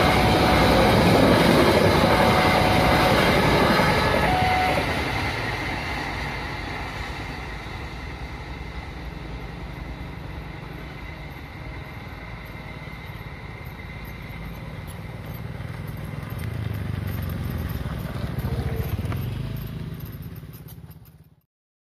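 Passenger train running past over a level crossing, loud for the first few seconds and then dying away as the last coaches clear. Later a motorcycle engine draws near and goes by, and the sound fades out just before the end.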